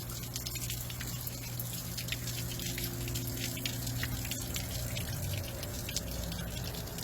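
Water splashing and dripping with many small clicks, over a steady low hum.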